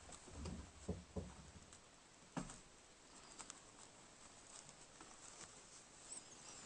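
Faint taps and knocks of small birds at a wooden feeder: a quick run of soft knocks in the first second and a half, a sharper single knock a little later, then a faint high bird call near the end.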